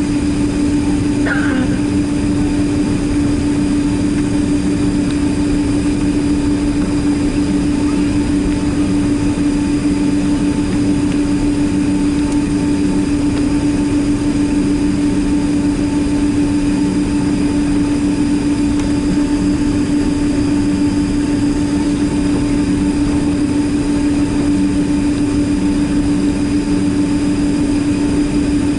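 Boeing 767-300ER's jet engines heard inside the passenger cabin: a steady drone of engine and air noise with a constant low hum that does not change.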